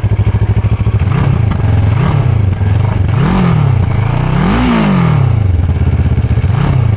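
CFMoto 650NK's 649 cc parallel-twin engine idling and being revved in five throttle blips, each rising and dropping back to idle. The fourth blip is the highest, and a small final one comes near the end.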